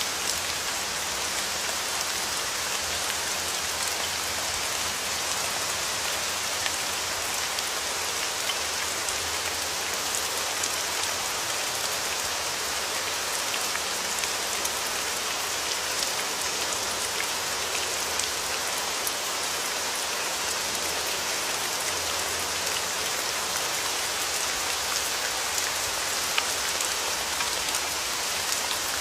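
Steady rain falling on a surface, an even hiss with scattered louder drop ticks.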